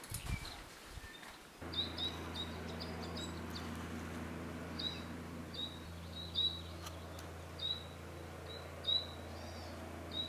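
Small forest birds chirping, with many short high chirps repeated every fraction of a second to a second. A steady low hum comes in suddenly about a second and a half in and stays under them, and a few soft thumps are heard before it.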